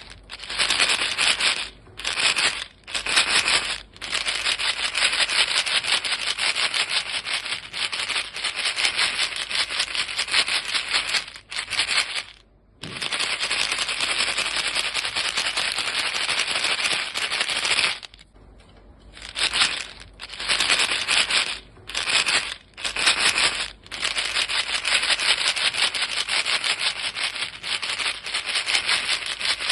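A small box of chewing gum pellets shaken continuously, giving a dense, fast rattle. It breaks off briefly several times, with slightly longer pauses a little before the halfway point and again about two-thirds through.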